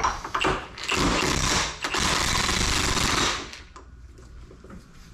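Impact wrench hammering on a large socket, trying to break loose the nut on a hydraulic cylinder's piston rod. It runs in two bursts, about a second and then about a second and a half, then stops.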